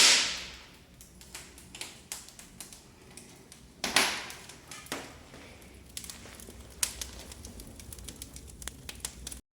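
Wood fire in a fireplace firebox crackling, with irregular sharp pops and two louder snaps, one at the start and one about four seconds in.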